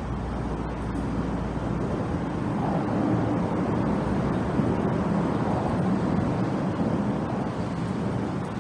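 Steady road traffic noise, a low rumble of vehicles passing.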